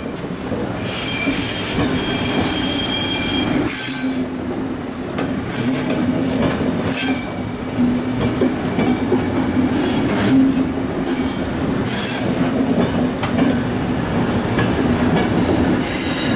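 A regional train of low-floor passenger coaches rolling slowly over a level crossing. The wheels squeal high and shrill in the first few seconds, there are clacks over the rail joints every second or few, and a steady low hum runs underneath.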